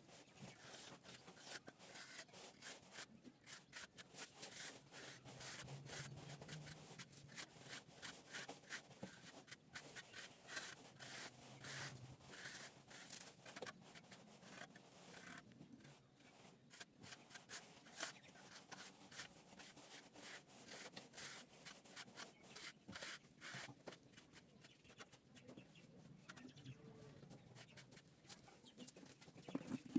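Faint, irregular scraping and rubbing strokes, typical of a plastering trowel or float worked over a cement-plastered wall.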